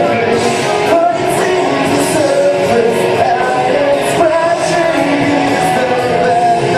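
Rock song performed by a singer with a band; a sung melody runs over steady guitar and drums.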